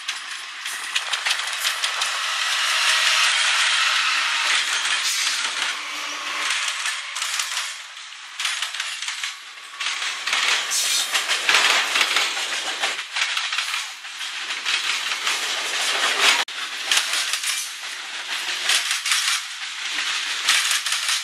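Freight train passing at close range, locomotives first and then the freight cars: a steady rush of wheels on rail, with clattering and rattling from the cars.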